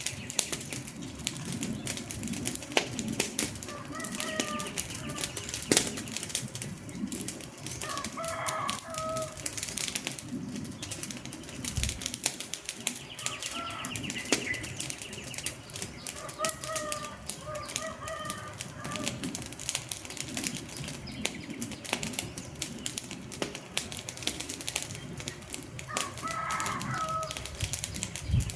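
Wood fire crackling with a dense run of sharp pops and snaps. Short bird calls chirp now and then over it, a few times in the stretch.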